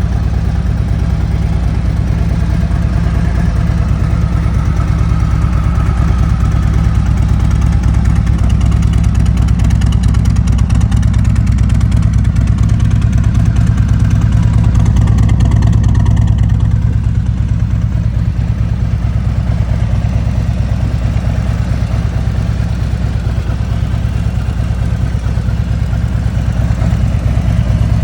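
2017 Harley-Davidson Street Glide Special's Milwaukee-Eight 107 V-twin running steadily at idle through an aftermarket exhaust, a deep, loud engine note.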